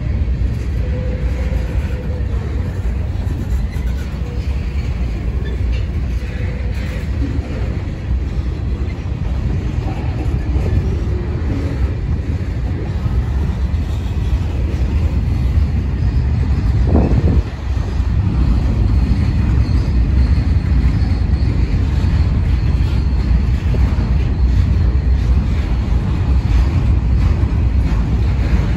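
Freight cars (covered hoppers, tank cars and boxcars) of a passing freight train rolling by on the rails, a steady low rumble of wheels and trucks.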